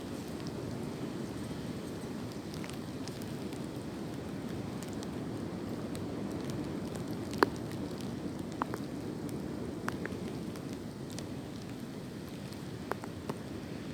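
Wind blowing through tree branches and leaves, a steady rushing noise, with a few scattered sharp clicks, the clearest about seven seconds in.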